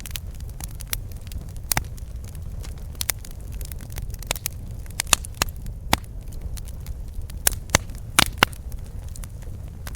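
Campfire burning: irregular sharp crackles and pops from the burning wood over a steady low rumble of the flames, with a few louder pops in the second half.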